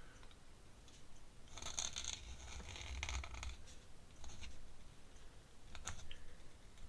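Pen scratching across paper in short strokes, with a couple of light clicks near the end.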